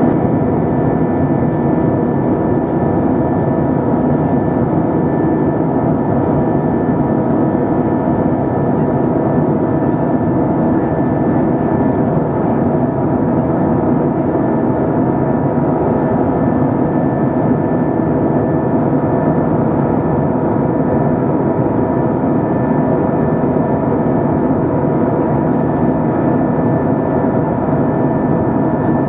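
Steady drone inside the passenger cabin of an Airbus A320 with its engines running, a constant rush of noise carrying several fixed humming tones.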